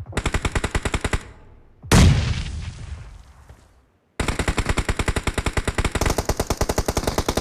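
Shooter video game automatic gunfire, rapid shots at about ten a second, broken about two seconds in by a single loud blast that fades away over about two seconds. After a brief silence the automatic fire resumes and keeps going.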